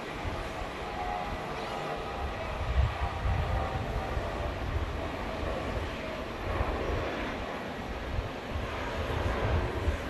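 Jet airliner engine noise: a steady rumble with uneven low surges. Faint steady tones sit in it during the first few seconds.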